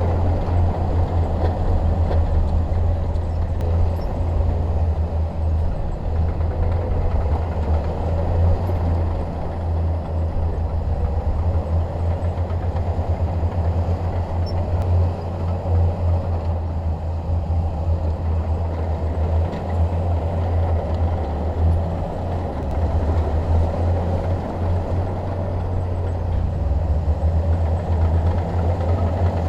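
Shantui DH17 crawler bulldozer's diesel engine running steadily under work, a deep continuous rumble with no break.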